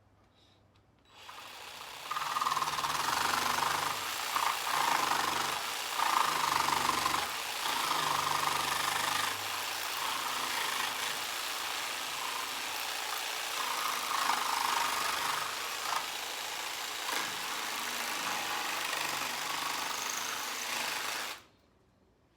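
Jigsaw cutting a notch into a piece of scrap 2x4 pine. It starts about a second in and runs for roughly twenty seconds, its pitch shifting as the blade works through the wood, then stops shortly before the end.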